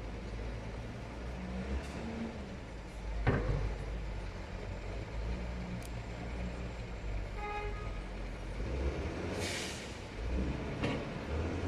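Heavy diesel machinery running steadily, with a sharp metallic knock about a third of the way in, a brief squeal a little past halfway and a short hiss of air brakes released near the end.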